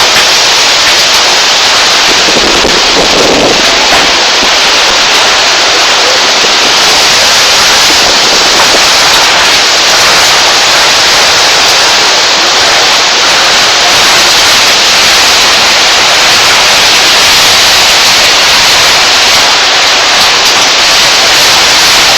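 Heavy monsoon rain pouring down in a loud, steady rush, with a brief lower surge about three seconds in.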